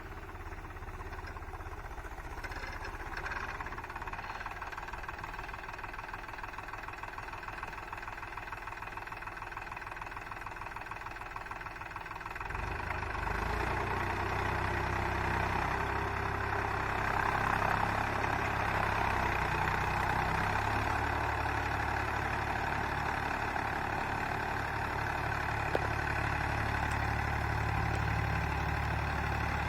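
Mahindra Yuvo 275 DI tractor's diesel engine running steadily, growing louder with a heavier low rumble about twelve seconds in.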